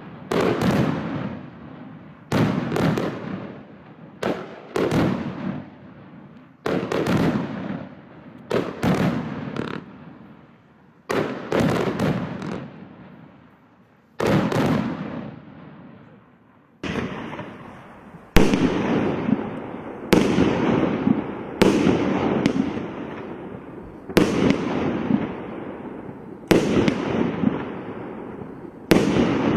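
Large display firework cakes firing: a sharp bang every second or two, each followed by a fading tail. There is a lull of about three seconds around the middle, after which the shots come a little faster and louder.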